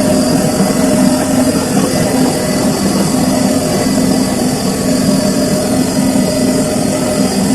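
Samsung washing machine running with a steady hum and a few held tones.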